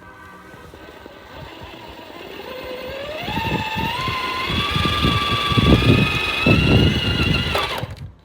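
Electric drive motor of a Superlight SV1 RC rock crawler whining under throttle, rising in pitch and then holding high, over irregular low knocking and rumbling as it climbs a rock obstacle. It cuts off suddenly near the end.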